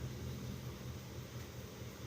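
Low rumble under a steady hiss, easing slightly toward the end.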